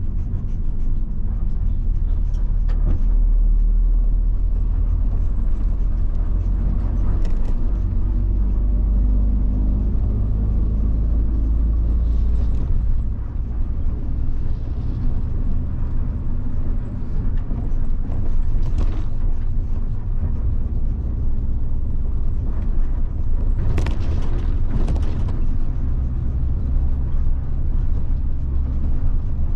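1990 Mitsubishi Fuso bus's 7.5-litre diesel engine running under way, a steady low drone whose pitch climbs and then drops about halfway through. A few short hisses come near the end.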